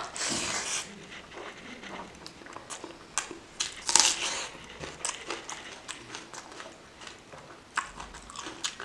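Close-up eating of curry-soaked rice by hand: a mouthful pushed in, then chewing with many wet clicks and smacks. About four seconds in comes a louder wet squish as fingers mix rice and gravy in the bowl.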